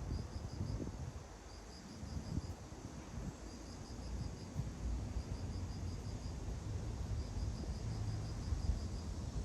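Cricket chirping: short, high trains of quick pulses repeated every second or two, over a low rumble.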